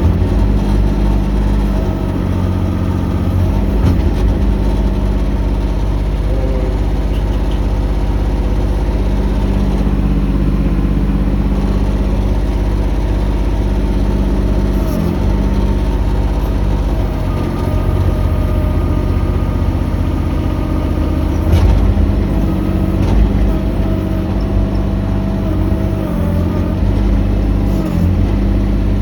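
Mini excavator's engine running steadily at working speed, with a higher whine that shifts in pitch as the hydraulics are worked. There are a few sharp knocks.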